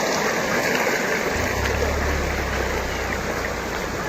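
Steady rushing of rain-swollen water and mud, with a low hum joining about a second in.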